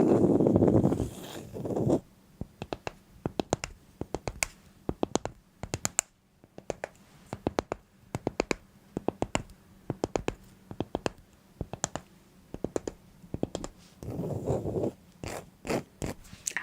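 Close-up scraping or rustling for about two seconds, then a long run of sharp clicks and taps in quick, irregular clusters, with another short rustle near the end.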